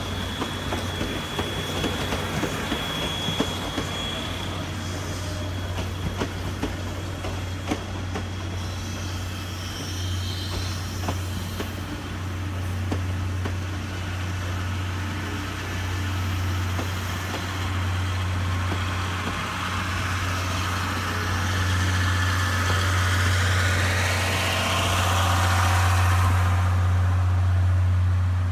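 Train sounds at a railway station: a steady low hum like an idling rail engine, with scattered clicks and a thin high squeal in the first few seconds. A hiss grows louder over the last several seconds.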